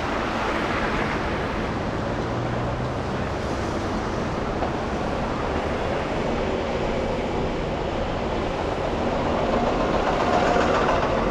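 Steady city traffic and road noise heard from a car driving through the streets, swelling briefly near the end.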